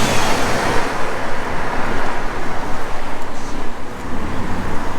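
Street traffic noise, loudest just after the start and then easing to a steady rush.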